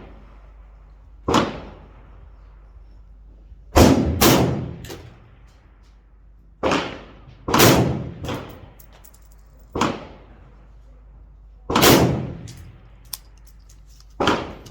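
Rifle shots from a 5.56 M4-clone AR-15 being fired to sight it in: a string of sharp reports, each with a short fading echo, the three loudest about four seconds apart and quieter shots in between.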